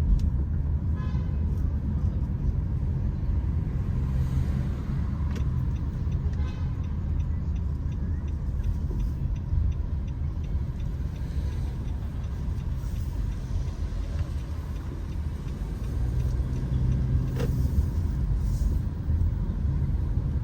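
Steady low rumble of road vehicles, with a brief sharp click about three seconds before the end.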